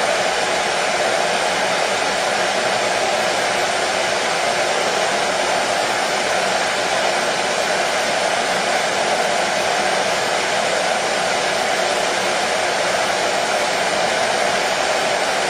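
Hair dryer running steadily, a constant whooshing rush of blown air and motor noise, played as white noise to settle a colicky baby to sleep.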